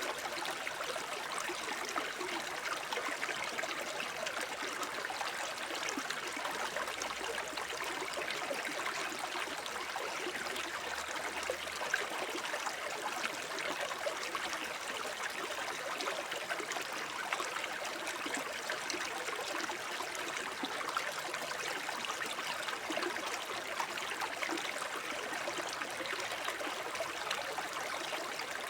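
Shallow forest brook babbling and trickling over stones, a steady bright rush of water with fine splashy flicker.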